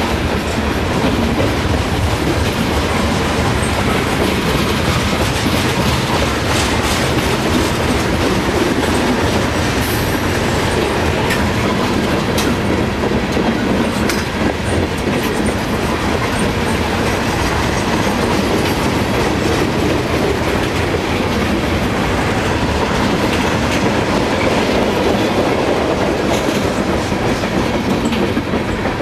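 Freight train of railroad tank cars rolling past close by: a steady noise of steel wheels running on the rails, with occasional clicks.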